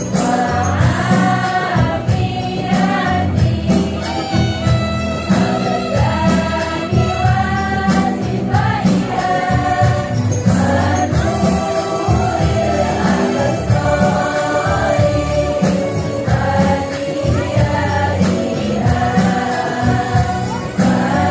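Women's choir singing an Islamic devotional song in unison over instrumental accompaniment, with light percussion keeping the beat.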